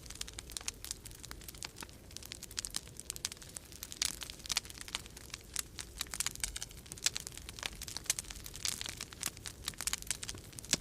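Wood fire crackling in a fireplace, with many irregular sharp pops and snaps, over a steady low rumble of storm wind.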